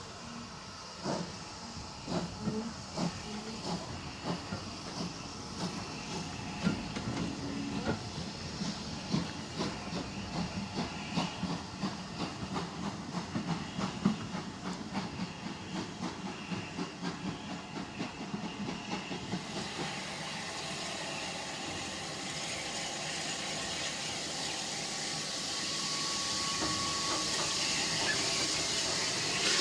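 Steam locomotive working a train: a rhythm of beats for most of the first part, then about two-thirds of the way in a steady steam hiss takes over and grows louder.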